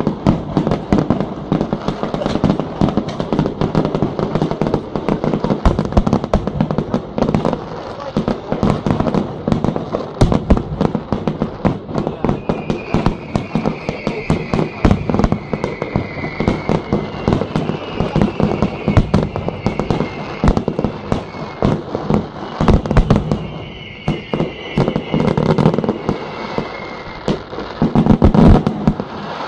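Fireworks display: a rapid, continuous run of bangs and crackles from shells bursting, with a louder, denser cluster of bangs near the end.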